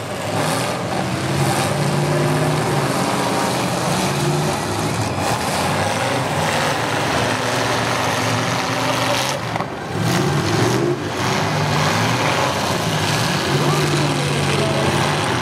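Demolition derby cars' engines running and revving unevenly, over a steady background noise, with a voice heard among them.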